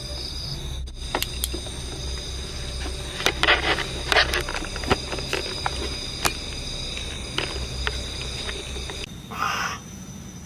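Outdoor night ambience: a steady high insect-like trilling over a low rumble, with scattered sharp clicks and crackles, thickest a few seconds in, and a brief louder rustle near the end.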